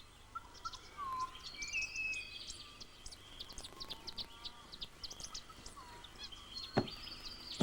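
Wild birds chirping and calling: a quick scatter of short high chirps with a few whistled, sliding notes, and one sharp click or knock near the end.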